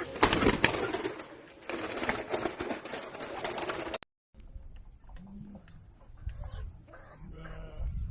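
Domestic pigeons cooing, with a brief break about halfway through where the sound cuts out and resumes quieter.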